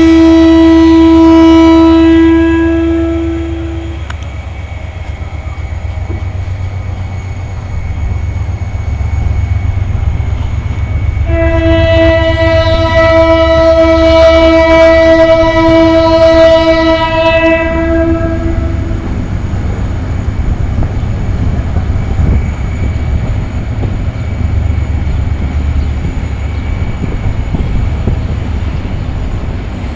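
GT22CW diesel-electric locomotive sounding its horn as the train departs: a blast of about four seconds at the start, then a long blast of about seven seconds from about eleven seconds in, over the steady low rumble of the locomotive and rolling train.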